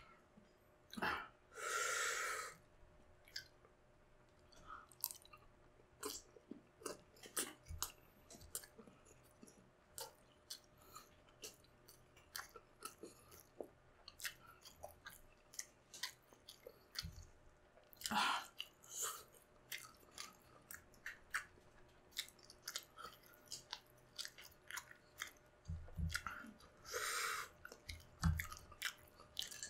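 Close-miked chewing of balut with chopped chili: many small wet mouth clicks and smacks. Louder noisy rushes come about 2 seconds in, around the middle and near the end.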